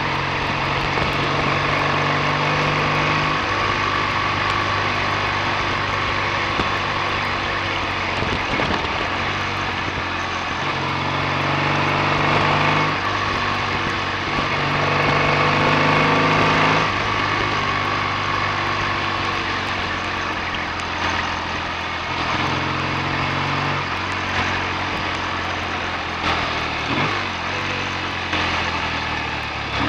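BSA A65 650 cc parallel-twin engine running on the road, its note rising and falling several times with throttle and gear changes.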